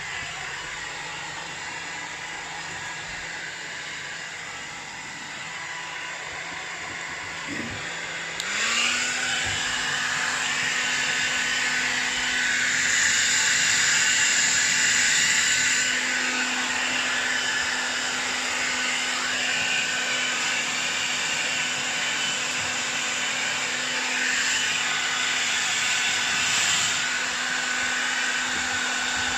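Handheld hair dryer blowing on its cold setting, a steady motor hum with rushing air. About a third of the way in the motor speeds up with a short rising whine and the blowing gets louder, then holds steady.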